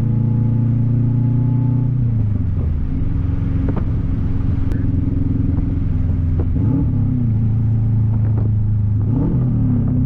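Subaru flat-four engine running loud through a 3-inch catless open downpipe with no other exhaust, while driving. Its note holds steady, shifts in pitch about two seconds in, and swoops briefly up and down twice later on.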